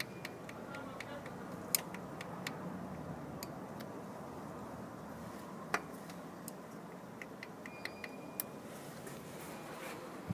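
Steady low room noise with a few scattered sharp clicks and taps, the loudest about two seconds in and again near six seconds.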